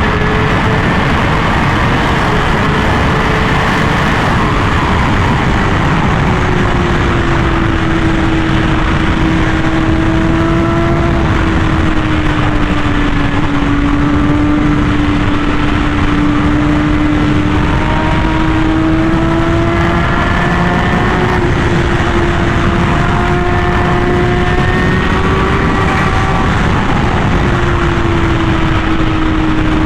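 Honda CBR1000RR-R Fireblade SP's inline-four running at high speed through an SC-Project titanium exhaust. The engine note holds fairly steady, easing down a little in pitch and slowly rising again, under a loud, constant rush of wind and road noise.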